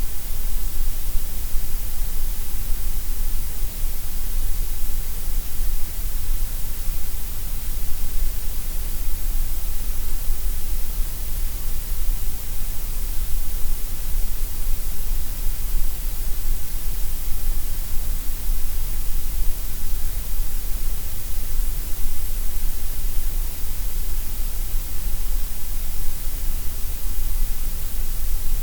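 Steady synthetic gray noise: an even, unbroken hiss, heavier in the deep bass and the highs than in the middle.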